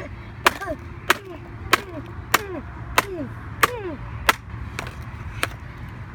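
Repeated sharp strikes on a MacBook's keyboard, hitting the keys out, about one and a half hits a second. Each hit is followed by a short ring that falls in pitch. The hits stop a little before the end.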